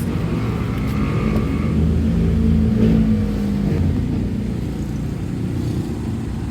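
Motor vehicle engine running while riding in the vehicle, with a steady low hum that builds a little from about two seconds in and then eases off.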